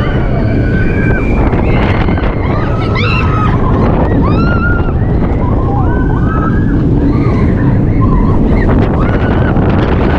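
Loud rush of wind buffeting the microphone on a moving spinning roller coaster car, with the rumble of the car on its track. Short, high rising-and-falling cries come over it again and again throughout, like riders screaming.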